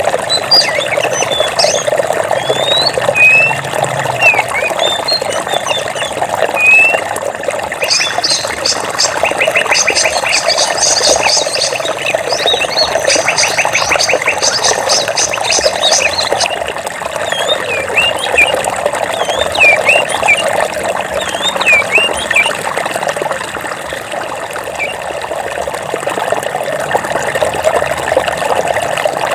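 Stream water flowing steadily, with birds chirping and whistling short calls over it. A fast rattling trill runs through the middle stretch and then stops.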